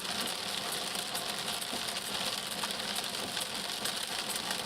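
Steady driving noise inside a car: engine hum and road hiss, with faint rapid irregular ticking.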